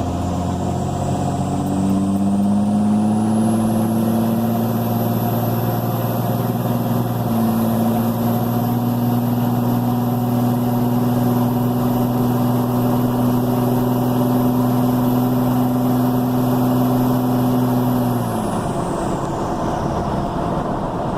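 Turbo diesel truck engine breathing through an aftermarket cold air intake, run up and held at raised revs. The engine note and a high turbo whistle climb over the first few seconds, hold steady, then fall away near the end as the revs come down.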